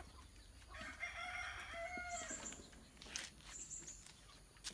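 A rooster crowing: one call of about two seconds, starting about a second in.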